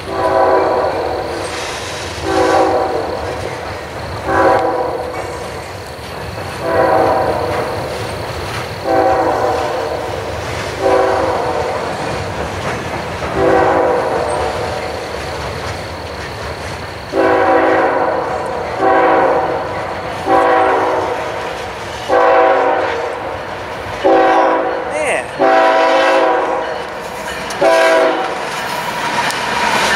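Freight train cars rolling past with wheel clatter, while a diesel locomotive horn sounds in a long series of short blasts, one every couple of seconds.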